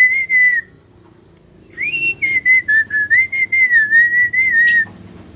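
Javan myna (jalak kebo) whistling a wavering, warbling tune at about one pitch, broken into quick pulses. A short phrase ends about half a second in; a longer one starts about two seconds in with a quick upward slide and stops near the end.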